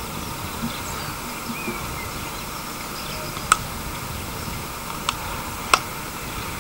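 Steady outdoor background noise with faint bird chirps, broken by three sharp clicks about halfway through and near the end.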